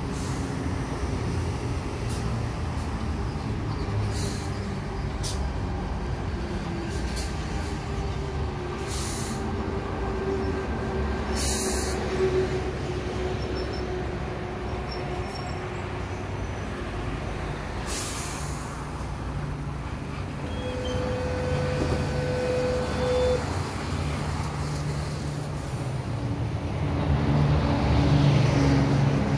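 Sydney Trains electric suburban train rolling into the platform and coming to a stop, with several short, sharp hisses of air from its brakes. A single steady tone sounds for about three seconds past the middle, and the train grows louder again near the end.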